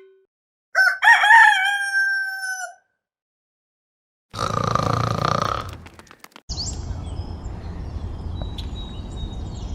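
A rooster crowing once, starting about a second in, with a stuttering onset and a long falling final note. Later comes a short burst of noise, then a steady low background hiss with a few faint high chirps.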